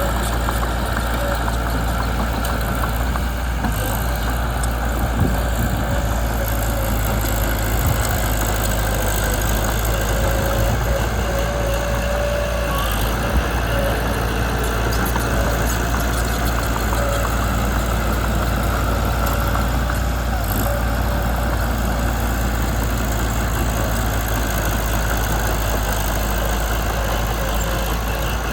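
Mitsubishi BD2 bulldozer's diesel engine running steadily, with a deep low drone.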